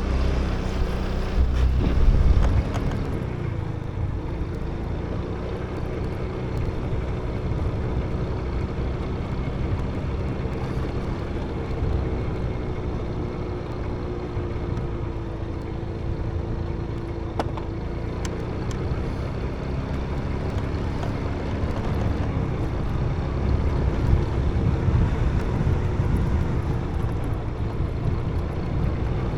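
Motorbike engine running steadily while riding, its pitch drifting gently up and down with speed, over a low rumble that is heaviest in the first few seconds.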